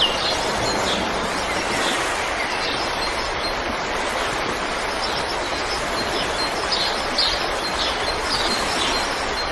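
River water flowing steadily, with faint short bird chirps over it, more of them in the second half.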